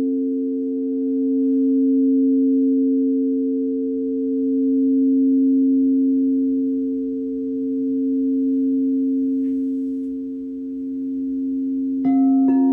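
Singing bowl sounding a sustained, layered hum that swells and fades about every three seconds. Near the end, a steel tongue drum (glucophone) starts striking notes.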